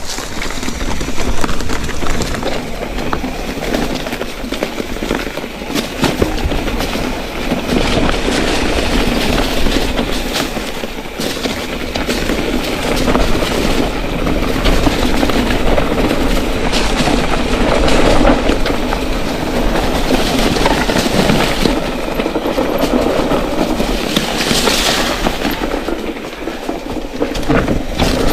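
Mountain bike rattling and clattering steadily down a rocky, sloping trail, its tyres rolling over stones.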